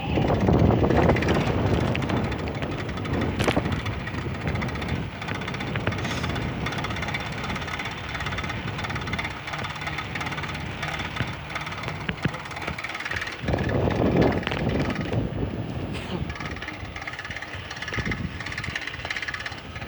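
Riding noise from a bicycle on a moving camera: wind buffeting the microphone over the rattle and hum of the ride, with the wind swelling at the start and again about two-thirds through, and a couple of sharp clicks.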